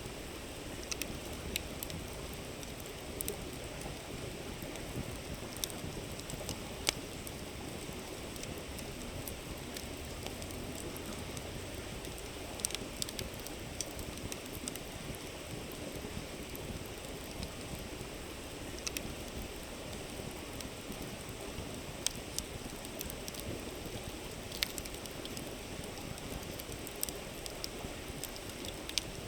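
Campfire crackling with irregular sharp pops and snaps over the steady rush of a flowing river.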